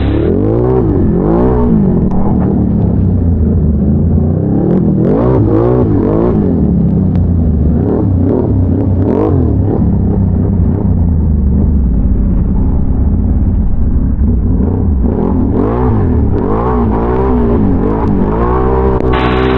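Can-Am Renegade ATV's big-bore V-twin engine being ridden under changing throttle, its pitch climbing and dropping again and again, with a steadier stretch through the middle.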